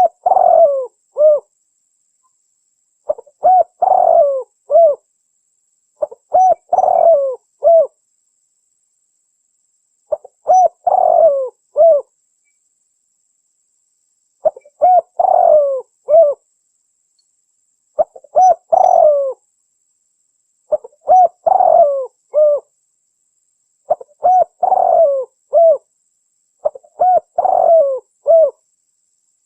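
Spotted dove (tekukur) cooing its song over and over: a phrase of a few coos ending in a short, separate last note, repeated every three to four seconds.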